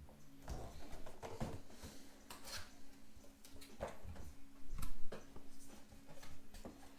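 Cardboard retail box being handled and opened by hand: irregular scrapes, taps and paper rustles, loudest about five seconds in.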